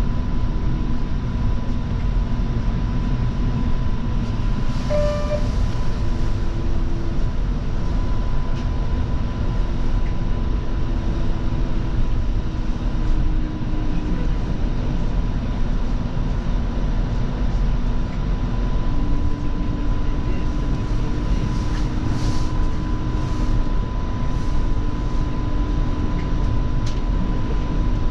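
Light-rail car, a Bombardier Flexity Freedom, running between stations, heard from inside: a steady low rumble of wheels on track with a motor hum that comes and goes. A short beep sounds about five seconds in.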